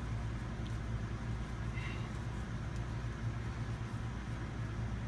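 Steady low machine hum, with a few faint light ticks over it.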